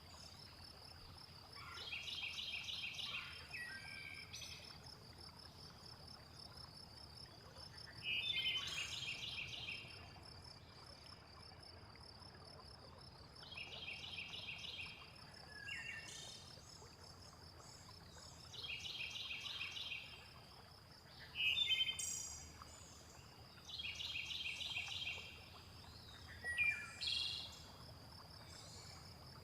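Birds singing over a steady, high insect trill. One bird repeats the same short trilled phrase about every five to six seconds, and other birds give brief chirps in between.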